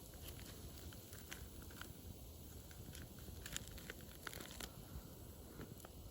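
Wood burning in a campfire, crackling with irregular sharp pops and snaps over a low, steady background rush; the pops come thicker about halfway through.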